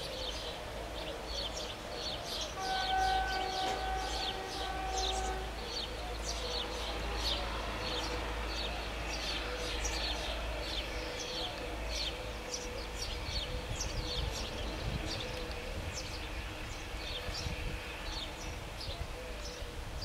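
A diesel-hydraulic locomotive-hauled passenger train rumbles away at low level while songbirds chirp throughout. About two and a half seconds in, a steady horn tone sounds for about three seconds.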